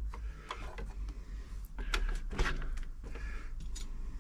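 A few light clicks and knocks of sewing machine parts being handled, over a low steady hum.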